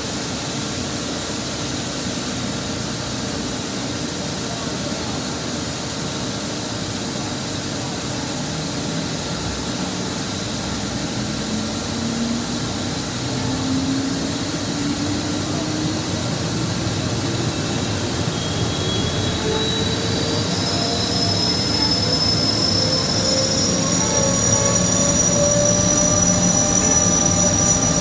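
Boiler under a fire test, with a steady roaring hiss. From about twelve seconds in, a whistle-like tone climbs slowly in pitch and grows louder toward the end.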